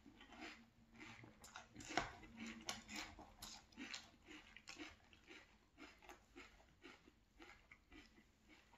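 Close-up chewing of milk-soaked frosted corn flakes: a quiet run of small, irregular crunches, one sharper crunch about two seconds in.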